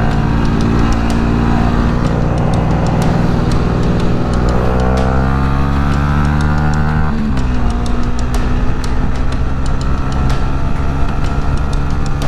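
Motorcycle engine under way, its pitch climbing steadily as the bike accelerates, then falling suddenly about seven seconds in and holding steady after.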